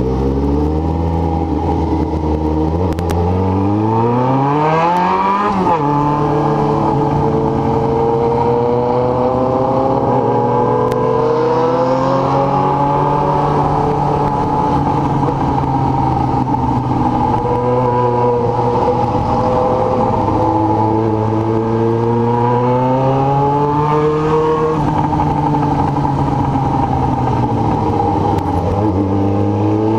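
Yamaha XJ6 N's inline-four engine under way on the road. The revs climb from about three seconds in and drop sharply at a gear change near six seconds, hold fairly steady, then climb and drop with another shift past twenty seconds, and start rising again near the end.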